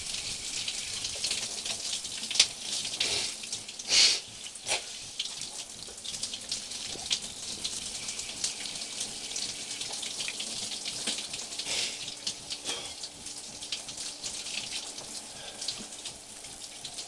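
Water running and splashing, with many small splashes and a louder splash about four seconds in.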